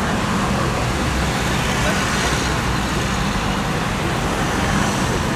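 Steady street noise: a running engine's low hum under a constant rush of traffic.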